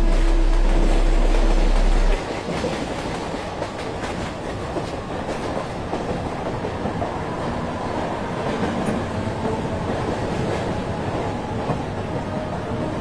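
Mumbai suburban local train running, heard from inside the compartment: a steady rumbling, rattling noise with a few clicks. A loud low drone from the background music cuts off abruptly about two seconds in, leaving the train noise.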